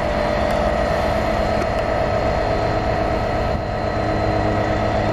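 Great Western Railway Class 800 bi-mode train pulling away, a steady whine of several held tones over a low rumble.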